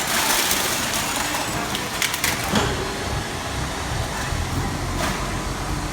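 250-ton hydraulic metal baler compressing scrap metal: hissing, crunching noise, loudest over the first second and a half, with sharp cracks about two seconds in and again near the end.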